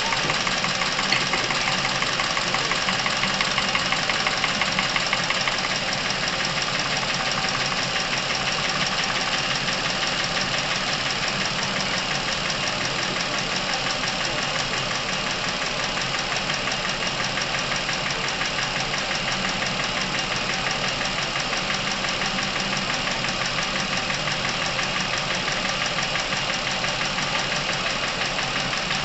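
Chevrolet Epica engine running with a rapid ticking clatter from its top end, a noise the owner puts down to clogged oil passages, with Dimexide solvent just added to the oil as a flush. The clatter gets a little quieter about five seconds in.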